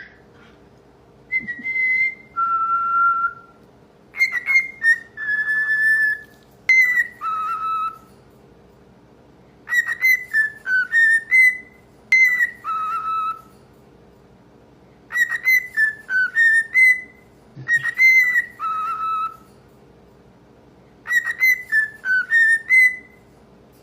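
Male cockatiel singing its whistled song: clear, pure notes in short phrases with pauses between them. A phrase that steps down and then back up is repeated several times.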